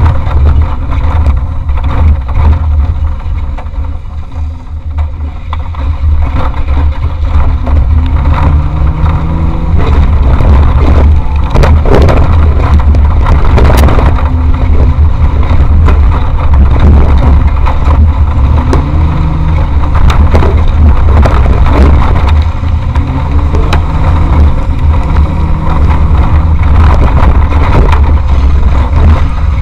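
Off-road race vehicle's engine running hard, its pitch rising and falling as it revs up and eases off, with a heavy low rumble and repeated knocks and rattles from driving over rough ground. It eases off briefly a few seconds in.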